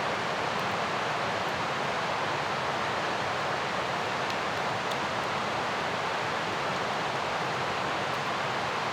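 Steady rush of a fast mountain river, an even unbroken roar of water.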